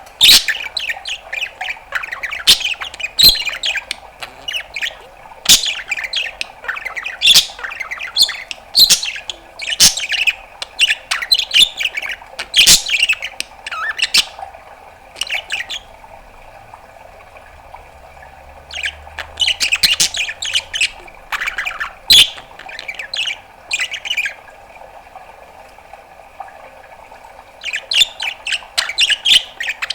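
Budgerigar chattering in fast runs of chirps, clicks and squawks, falling quiet for a few seconds past the middle and again before the end. A faint steady hum runs underneath.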